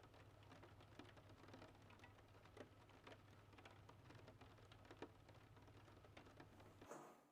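Faint, irregular clicking and light tapping over a low steady hum; the hum cuts off near the end.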